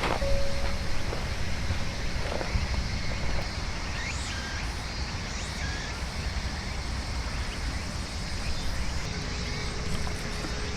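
Heavy rain falling steadily, an even hiss, with a few faint short high chirps over it.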